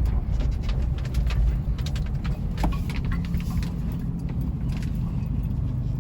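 A 4x4 off-road vehicle's engine running with a steady low rumble, with scattered short clicks and knocks over it.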